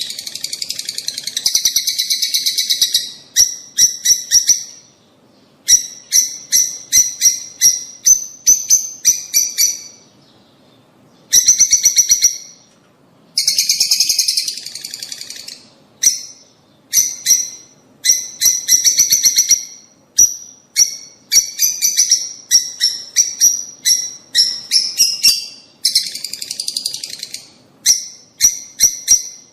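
Lovebirds calling: quick series of high-pitched chirps and stretches of dense chattering, broken by short pauses.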